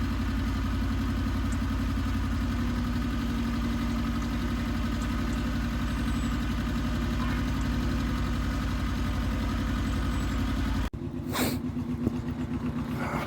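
Iseki TX1300 compact tractor's diesel engine running steadily. About eleven seconds in, the sound cuts abruptly to another take of the engine running, more unevenly, with a brief gust of noise.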